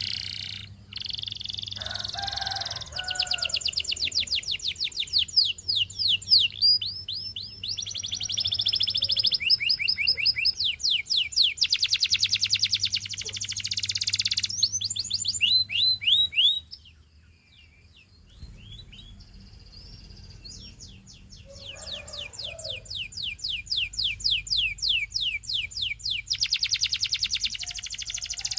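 Canary singing a long song of rapid trills, each a fast run of repeated chirping notes, changing from one trill to the next. The song stops for a couple of seconds a little past halfway, then starts again.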